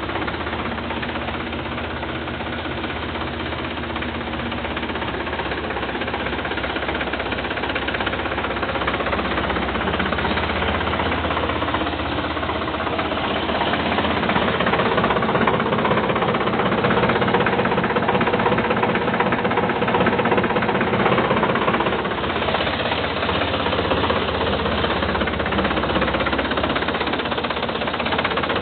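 Sonalika tractor's diesel engine running steadily, growing somewhat louder through the middle stretch before easing back.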